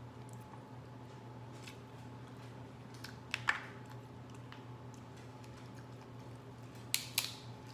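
Crab shell being cracked and picked apart by hand: small clicks and crackles, with two louder sharp cracks, one about three and a half seconds in and one near the end. A faint steady hum runs underneath.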